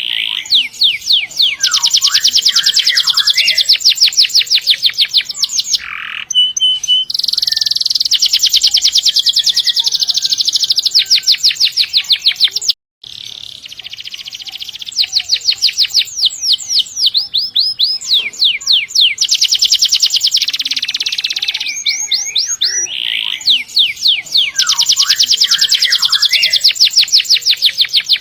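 Domestic canary singing long, fast rolls and trills of rapidly repeated high notes, with short pauses between phrases. The song cuts out for a split second about halfway through.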